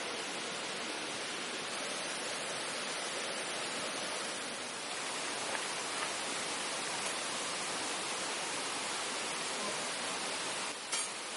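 Steady rushing noise with a few faint ticks, and a brief sharp click near the end.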